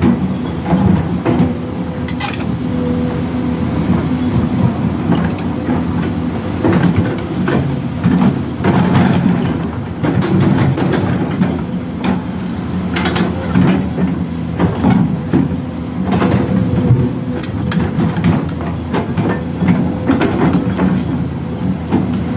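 Excavator's diesel engine running steadily under load, with frequent short knocks and clatters from its working gear.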